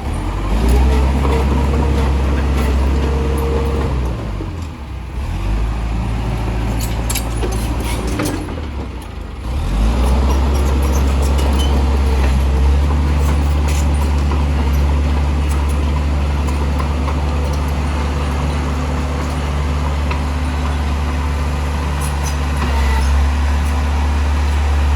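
Heavy diesel engine of earthmoving machinery running under load. It drops in revs and climbs back twice in the first ten seconds, then runs steadily, with scattered short clicks over it.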